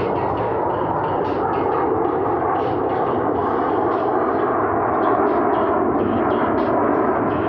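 Two Boeing F/A-18 Super Hornets' jet engines running in a slow, nose-high, high angle-of-attack pass, a steady, loud jet noise that builds slightly, with a faint whine falling slowly in pitch.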